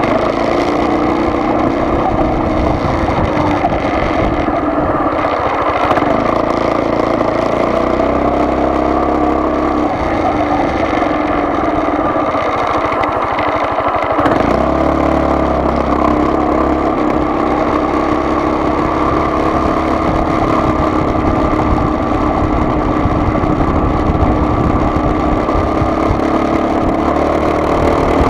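Car engine and road noise heard inside a moving car. The engine pitch shifts about halfway through.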